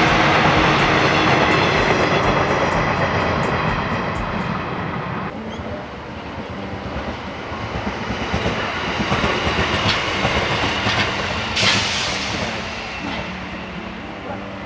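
Electric commuter train running past, its wheels clicking over the rail joints. The sound changes abruptly about five seconds in, and a brief hiss rises near the end.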